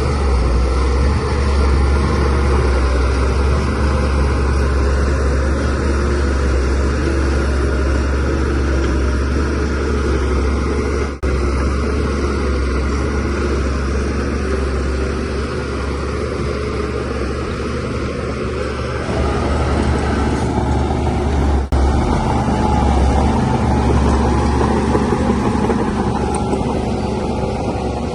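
DH17C3 bulldozer's diesel engine running steadily under load while pushing soil. The sound drops out very briefly twice, about a third of the way in and again later.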